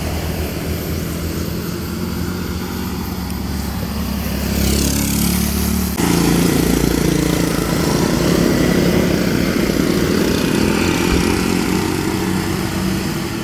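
Steady engine and road noise of a moving vehicle, with an abrupt change in the sound about halfway through.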